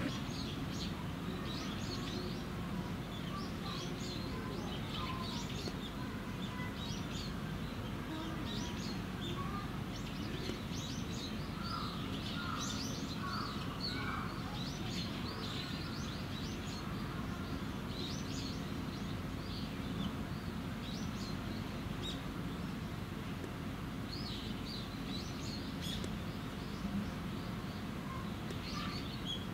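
Small birds chirping and calling in quick, scattered notes throughout, over a steady low background hum.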